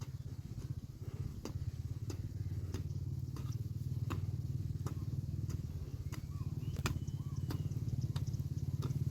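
A steady low engine drone with scattered sharp knocks and a few faint chirps.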